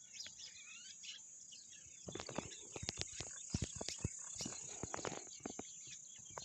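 Small birds chirping and twittering over a steady high-pitched insect drone. From about two seconds in, a flurry of sharp clicks and taps runs for a few seconds and is the loudest thing heard.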